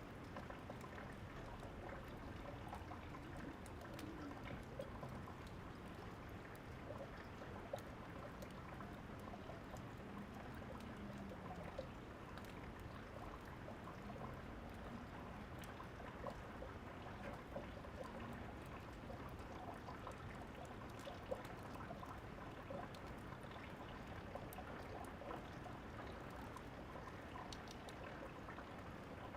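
Steady rain falling, with scattered crackles from a wood fire; a few sharper pops stand out, about 8 and 21 seconds in.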